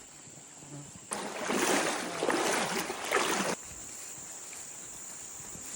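A loud rush of moving water for about two and a half seconds, starting and stopping abruptly, set against a steady high drone of jungle insects.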